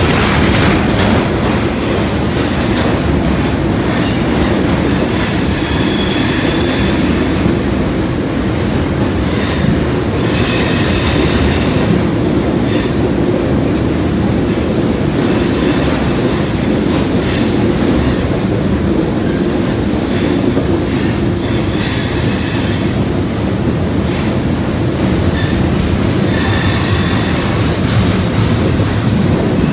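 Freight train's cars rolling past at close range: a steady, heavy rumble of wheels on rail, with a high metallic wheel squeal coming and going every few seconds.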